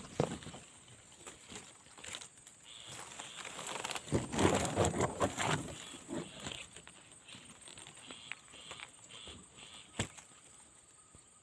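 Rustling and brushing noise, loudest for a couple of seconds in the middle, over a steady high-pitched insect drone, with a single sharp click near the end.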